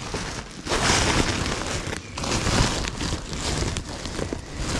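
Rustling and crinkling of clothes and bags being handled, in two long stretches.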